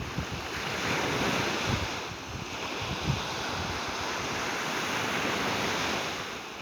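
Sea waves washing onto the beach, a rushing surf sound that swells about half a second in and again after about three seconds, with wind buffeting the microphone now and then.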